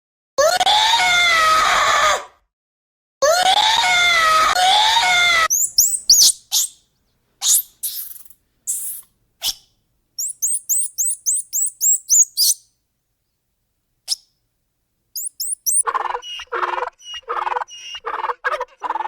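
A string of animal calls: two long, loud pitched calls in the first few seconds, then high bird chirps and a quick run of twittering notes, and near the end a fast series of short, repeated calls.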